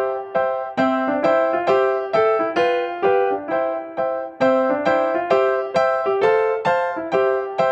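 Background music: a light piano melody of evenly paced notes, repeating the same phrase.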